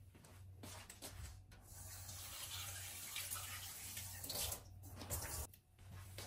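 Water running from a tap into a sink, a steady hiss that starts about a second and a half in and is shut off after about three seconds.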